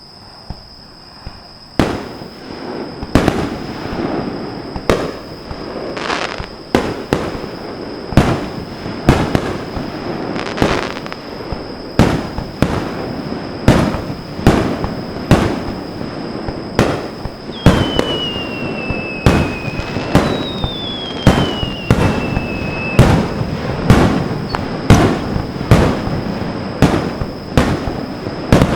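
Aerial fireworks shells bursting in quick succession, about one or two sharp bangs a second over a continuous rumble and crackle, starting about two seconds in. Near the middle, two whistling shells each give a falling whistle.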